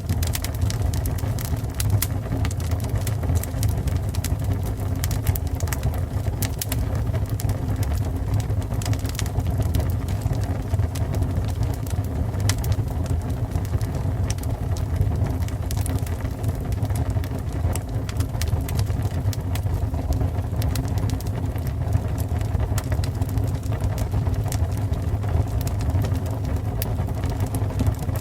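Fire burning with a steady low rumble and frequent irregular sharp crackles and pops.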